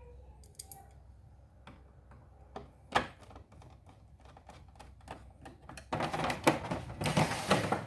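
Scattered clicks and taps of small parts and a screwdriver on the microwave's plastic control panel as the control board is screwed back in, one sharp click about three seconds in, turning to dense rattling clatter near the end.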